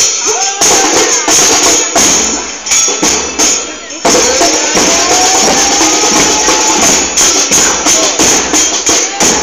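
Murga porteña percussion: bombos con platillo, bass drums with cymbals mounted on top, beaten loud in a fast, steady rhythm with bright cymbal crashes and voices over it. The playing thins briefly about three and a half seconds in, then comes back in full about four seconds in.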